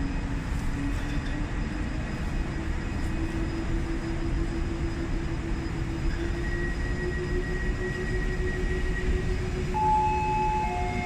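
PKP Intercity electric locomotive and its passenger coaches pulling out and picking up speed, wheels rumbling on the rails under a hum that rises slowly in pitch. Near the end a few higher ringing tones join in.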